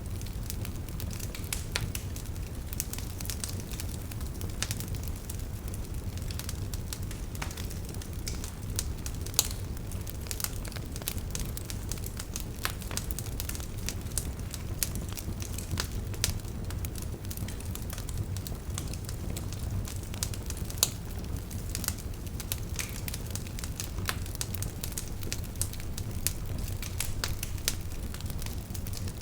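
Campfire burning: a steady low rumble of flames with frequent sharp crackles and pops at irregular intervals.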